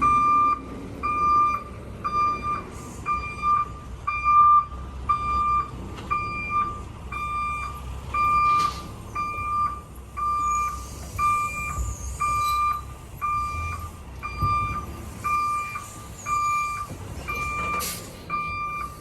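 Vehicle backup alarm beeping steadily in a high single tone, a little under once a second, over a low engine rumble.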